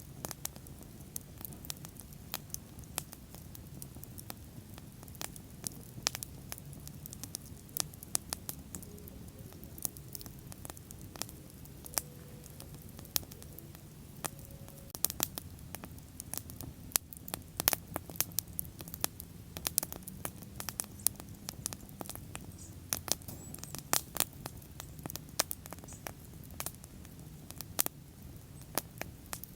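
Wood bonfire burning: frequent, irregular sharp crackles and pops of burning wood over a low steady rumble of the flames.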